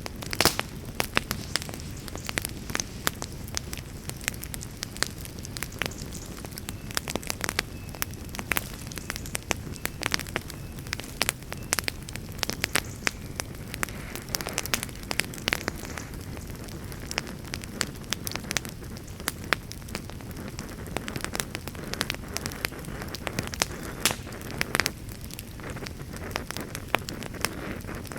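Campfire burning with dense, irregular crackling: many sharp pops and snaps over a steady low hiss.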